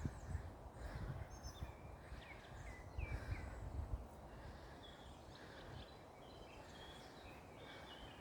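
Birds chirping and calling in short, scattered notes, some with quick pitch slides. Low, uneven bumps on the microphone run through the first four seconds and then die away.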